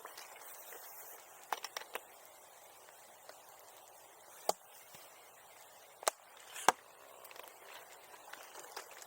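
Bonfire crackling with scattered sharp pops: a quick run of three small pops about a second and a half in, then a few louder single pops, the loudest about two-thirds of the way through.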